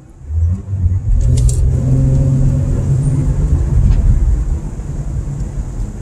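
Car engine accelerating: a low drone swells about half a second in, holds strong, and eases off a little after about four seconds.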